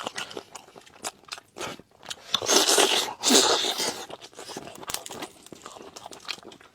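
A person chewing and biting into salt-baked hen: a run of short clicking mouth sounds, loudest from about two and a half to three and a half seconds in.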